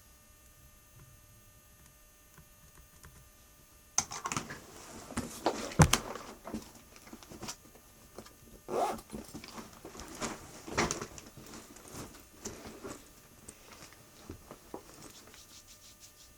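Near silence for about four seconds, then a run of irregular rustling, clicks and knocks from objects being handled. The loudest is a sharp knock with a low thud about six seconds in.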